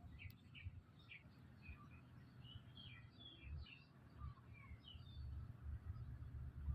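A quick run of faint, short, high-pitched squeaks and chirps from a small animal, some sliding in pitch, over a low rumble that gets louder near the end.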